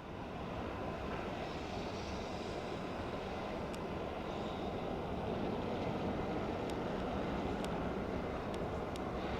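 Loaded BNSF coal train's diesel locomotives running past, a steady low rumble that grows slightly louder, with a few faint sharp clicks.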